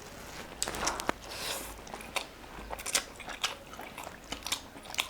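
Close-up eating sounds: a person chewing and biting food, with irregular sharp crunches and wet clicks of the mouth.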